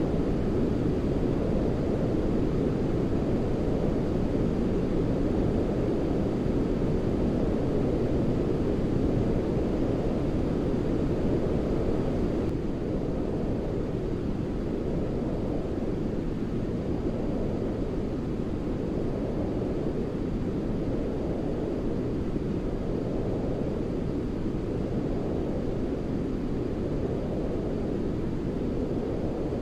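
Steady, deep white-noise track for putting a baby to sleep: an even noise with no tones or breaks, weighted low like brown noise. It gets slightly quieter about twelve seconds in.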